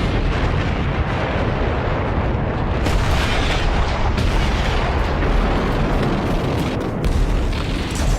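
Battlefield din of explosions and artillery fire: a dense, continuous low rumble with scattered sharp blasts.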